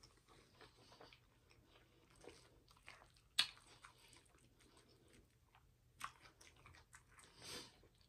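Faint close-miked chewing of a mouthful of turnip greens, with scattered small clicks. A sharp click comes about three and a half seconds in, another about six seconds in, and a short soft noise near the end.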